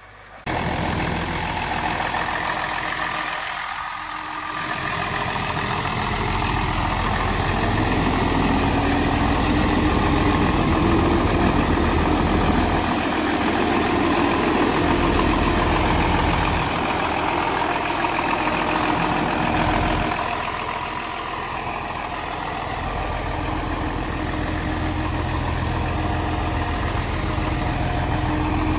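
1959 Farmall 560 tractor's six-cylinder engine running at idle, starting abruptly; a few seconds in, its pitch rises slowly and then holds steady.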